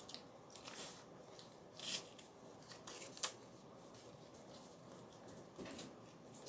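Scissors cutting paper: a few faint, separate snips spaced irregularly, as printed paper tags and labels are trimmed by hand.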